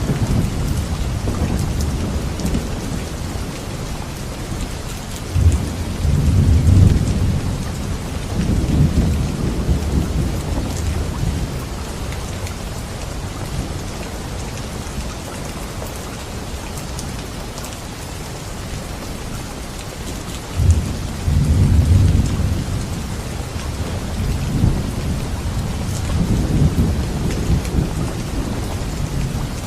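Steady heavy rain with rolling thunder: two big rumbles, one starting about five seconds in and another about twenty seconds in, each rolling for a few seconds, with lighter rumbles between.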